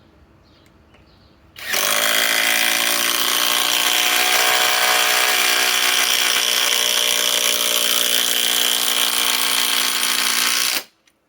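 Flex compact cordless impact driver hammering continuously for about nine seconds as it drives a ledger lock structural screw into timber. It starts about two seconds in, rising briefly in pitch as it spins up, and cuts off abruptly near the end.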